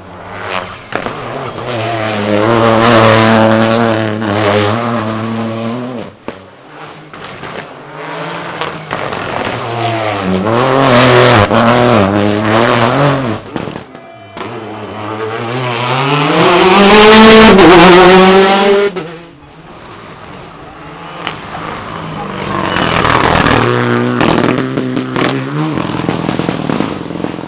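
Rally cars running flat out on a stage: engines revving hard and rising and falling through gear changes in four loud passages, the third climbing highest before it breaks off sharply.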